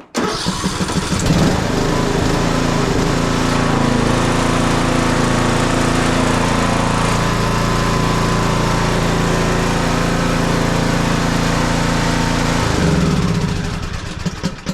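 John Deere lawn tractor's small gasoline engine running steadily, freshly serviced with a new spark plug, fresh oil, a new air filter and a charged battery after it would not start; it sounds really nice. Near the end the engine note changes and then dies away as it is shut off.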